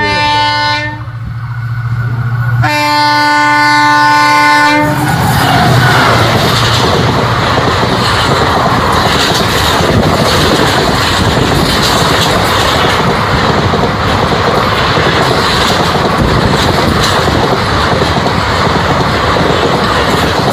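WDP4B diesel locomotive sounding its multi-tone horn twice: a blast that ends about a second in, and another from about three to five seconds in. Then the express passes close by, its coaches' wheels clattering on the rails.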